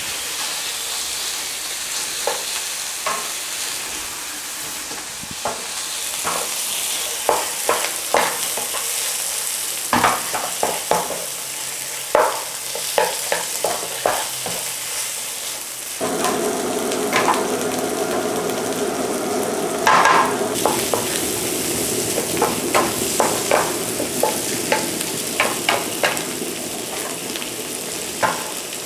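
Raw chicken pieces sizzling as they fry in a spiced onion curry paste in a non-stick pan, with a spatula scraping and knocking against the pan as it turns them through the paste. The sizzle grows louder and fuller about halfway through.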